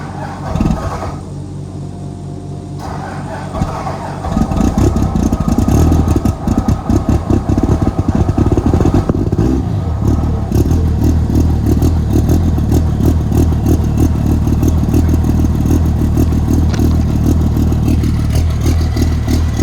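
A second-generation Dodge Ram 3500's 5.9-litre Cummins inline-six diesel cold-starting in freezing weather, with no grid heater and oversized injectors: after a few seconds of a steady idle from a tractor already running, it catches about four seconds in and runs loud and rough with a pulsing clatter. The owner calls it 'freaking angry'.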